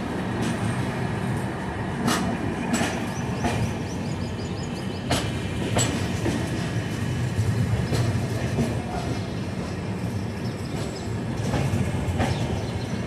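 Passenger train running into the station, heard from an open coach door: a steady rumble of the wheels on the track, with sharp clicks at irregular intervals as the wheels pass over rail joints and points.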